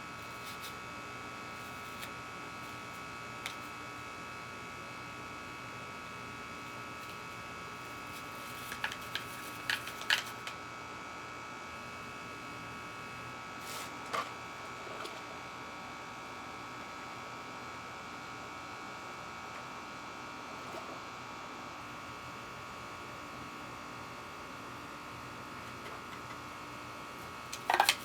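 Steady electrical hum with several fixed high-pitched tones running through it, with a few light clicks and knocks about nine to ten seconds in and again near fourteen seconds.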